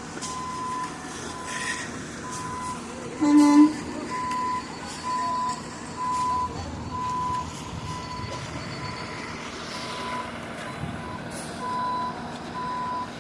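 A truck's reversing alarm beeping steadily, about once a second, over a running engine. About three seconds in, a short horn blast is the loudest sound.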